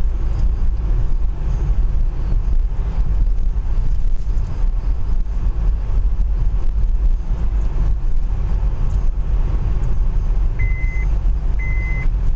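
Steady low rumble of a car's engine and road noise heard inside the cabin while driving. Near the end, a short high beep starts repeating about once a second, twice.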